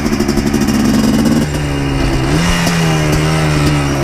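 2000 Yamaha Blaster 200's single-cylinder two-stroke engine running under way. Its pitch drops about a second and a half in and climbs again a second later as the rider works the throttle.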